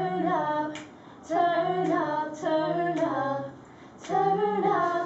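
A young female voice singing a cappella, without accompaniment, in a few held, gliding phrases with short breaths between.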